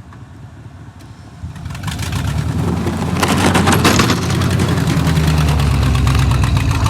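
A vehicle engine comes up loud about a second and a half in, revs hard around the middle, then keeps running at a steady high level.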